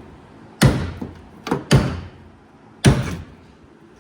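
Four heavy, irregular knocks of metal being struck or levered on a 1965 VW Beetle's body and chassis, each with a short ringing tail, as the body is being worked loose from the floor pan.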